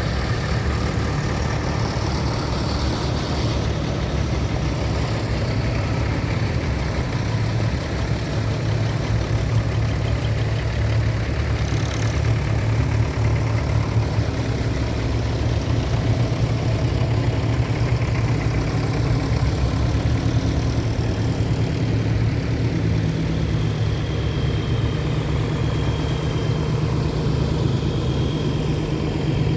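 Tractor engine running steadily at low revs, its note stepping up slightly about three-quarters of the way through.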